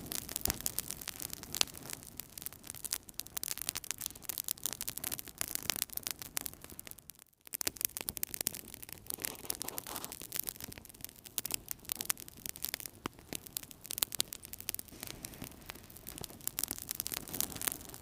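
Wood fire crackling in a fireplace: dense, irregular snaps and pops over a soft, steady hiss. The sound cuts out for a moment about seven seconds in.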